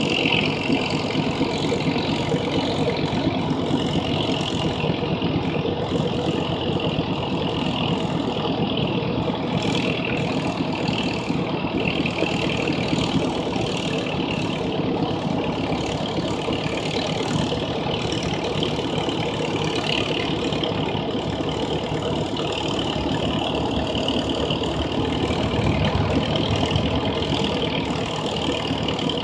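Massey Harris 44 Special tractor's four-cylinder engine running steadily under load as it pulls the sled in a tractor pull, a little louder about three-quarters of the way through.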